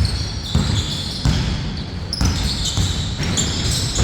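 Basketball bouncing on a court during a 4-on-4 game: several thuds at uneven intervals.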